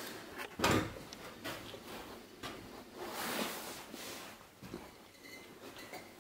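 Knocks and scuffing of someone moving and handling things while climbing up, with one loud thump a little under a second in and a longer scuffing swell around three seconds.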